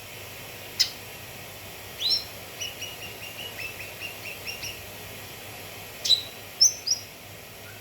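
Cucak kinoi song: a sharp single note, then a rising call followed by a quick run of short chirps at about four a second. It ends with a few more short calls, over a steady faint hiss.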